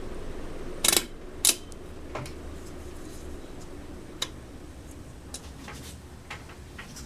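Hunter Innova ceiling fan's speed switch clicking twice about a second in. After that the fan runs with a steady low hum and whoosh that slowly gets quieter as it drops from high to medium speed.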